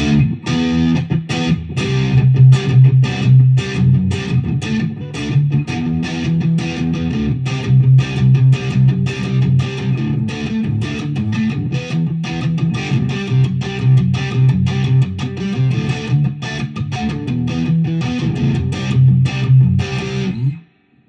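Electric guitar, a cheap copy of a B.C. Rich Ironbird, played in a long run of quick picked low riffs, stopping abruptly shortly before the end.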